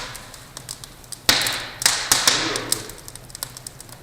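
Wood fire crackling in a newly built open brick fireplace: many small sharp pops, with louder snaps, each trailing a short hiss, about a second in and again around two seconds.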